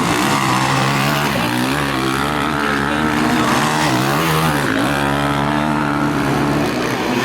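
Several motocross bike engines running at once, their pitch rising and falling as the riders open and close the throttle, with one dip and climb in revs about four seconds in.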